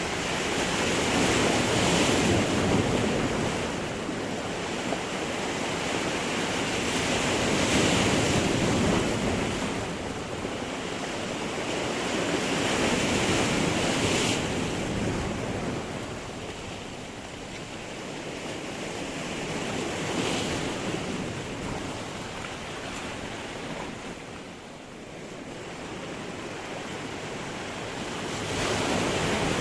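Sea surf breaking against rocks. Waves surge in about every six seconds and wash back between them.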